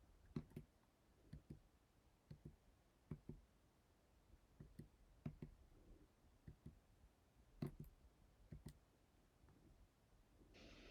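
Soft, irregular knocks in a quiet room, mostly in close pairs a fraction of a second apart, coming every second or so with longer gaps between. A steady hiss comes in just before the end.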